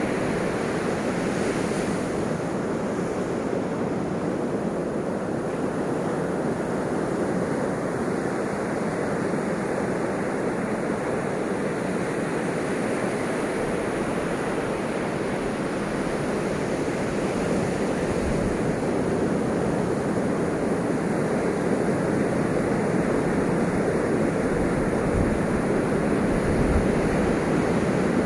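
Ocean surf: a continuous rush of waves washing in, steady throughout and a little louder toward the end, with a few low thuds in the last seconds.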